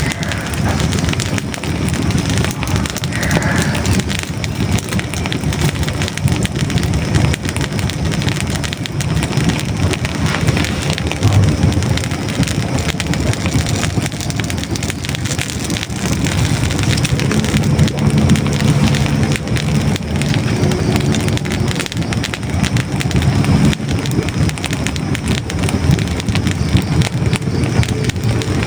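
Hardwood logs burning in a fireplace: dense, continuous crackling with many small pops over a steady low rush of the flames.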